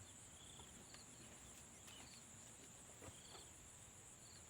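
Near silence with faint insects: a steady high trill, and short high chirps repeating every second or so.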